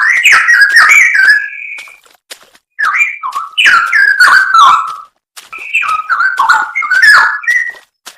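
Straw-headed bulbul (cucak rowo) singing: three loud phrases of fluty whistled notes that jump up and down in pitch, each about two seconds long with short pauses between.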